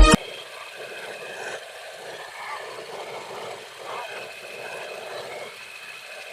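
Loud music cuts off abruptly at the very start, leaving a steady background noise of the kind heard from a moving vehicle.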